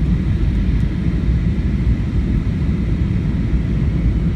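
Airliner cabin noise in flight: a steady, deep rumble of engines and airflow.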